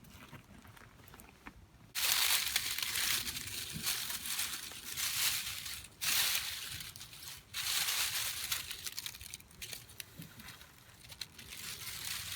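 Crinkling, rustling handling noise in long bursts, starting suddenly about two seconds in, with short breaks near the middle.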